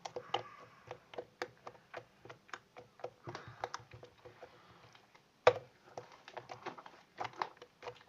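Sticky homemade slime of clear glue and borax water being squeezed and pulled by hand, making an irregular run of small wet clicks and pops, the loudest about five and a half seconds in.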